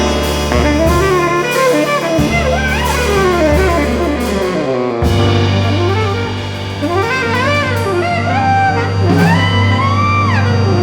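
Tenor saxophone playing fast, bending melodic runs in a jazz ensemble, over bass and drums. About five seconds in, the bass settles onto a held low note under the saxophone line.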